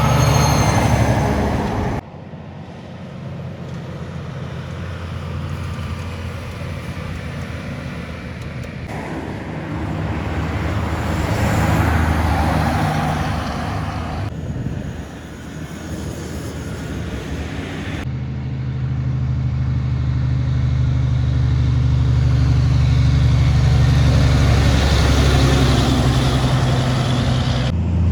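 Heavy trucks passing on a highway, their diesel engines giving a steady low drone under the rush of tyres and traffic. The sound swells and fades with each pass and changes abruptly several times.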